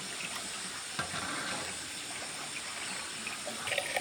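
Water running steadily from a tap into a container that is nearly full, with a single knock about a second in.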